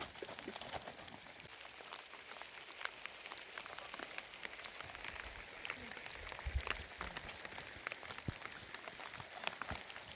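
Steady rain falling, a continuous hiss dotted with many sharp drop ticks on a hard surface. There are a few low thumps about six and a half seconds in.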